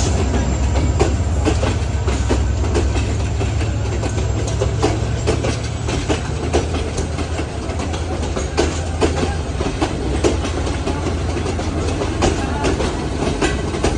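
Upakul Express passenger train running, its coach wheels clattering over rail joints in quick irregular clicks over a steady low rumble.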